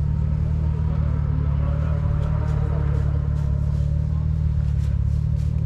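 Off-road vehicle engine running steadily, a deep even rumble with no revving.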